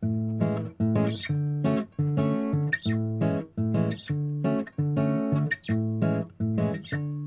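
Background music: acoustic guitar strumming chords in a steady rhythm, starting abruptly after a brief near silence.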